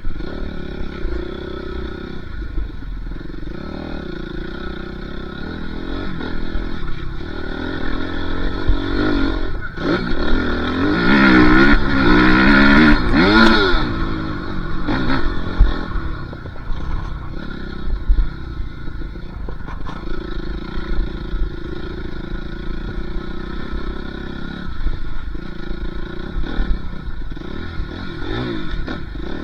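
Dirt bike engine revving up and falling back repeatedly, loudest with quick rising and falling revs about ten to fourteen seconds in, with a couple of sharp knocks.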